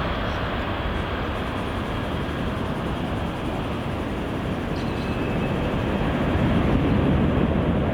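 Jet airliner engines rumbling steadily, growing a little louder from about six seconds in.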